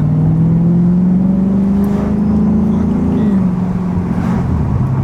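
Dodge Scat Pack's 392 Hemi V8 accelerating, its pitch climbing steadily for about three seconds, then dropping, and stepping down lower again near the end.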